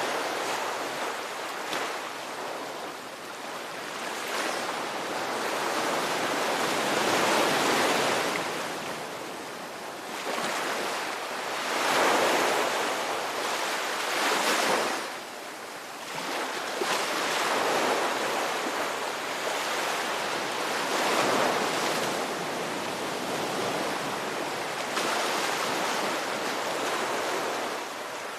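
Ocean waves breaking and washing ashore in a steady surf, swelling and ebbing every few seconds, with two louder waves a little before halfway.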